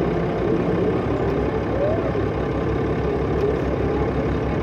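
Cummins ISL diesel engine of a 2005 New Flyer D40LF transit bus running steadily, with an even low throb.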